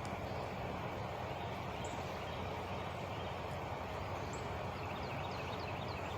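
Truck engine idling steadily, with a few bird chirps over it and a quick run of short chirps near the end.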